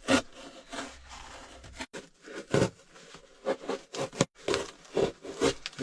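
Cardboard carton being handled and bent into shape: irregular rubbing, scraping and creasing strokes.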